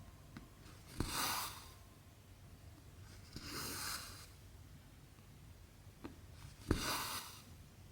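Needle popping through 11-count cross-stitch fabric, then cotton thread being drawn through it with a short hiss. This happens three times, about every two and a half to three seconds.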